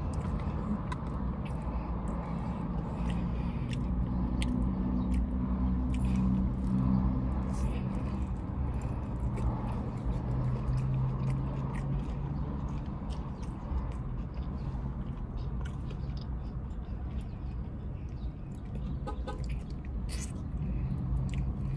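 Close-up eating sounds of fried chicken wings being chewed: wet chewing and lip smacking as many small clicks, over a steady low hum.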